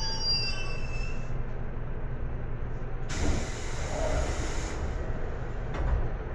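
JR Kyushu 811 series electric train heard from inside the car, slowing: a high, multi-tone wheel squeal fades out about a second in, then a hiss of released air lasts about a second and a half, and a short knock comes near the end, over a steady low rumble.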